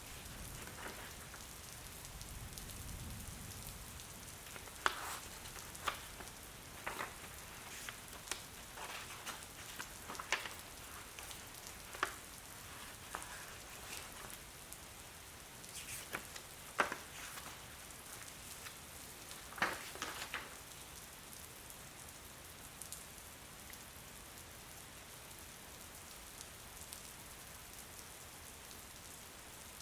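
Steady rain falling, an even hiss. Irregular sharp taps stand out over it through the middle of the stretch.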